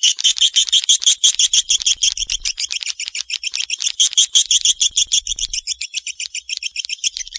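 Swiftlet lure call: a continuous rapid twittering of swiftlets, short high chirps repeating about nine or ten times a second without a break.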